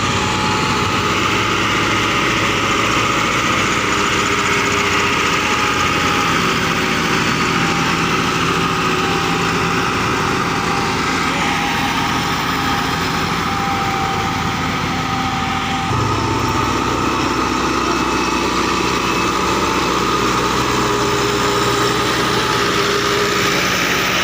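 Massey Ferguson tractor diesel engine running steadily. About 16 seconds in the engine sound changes abruptly to a deeper, heavier hum.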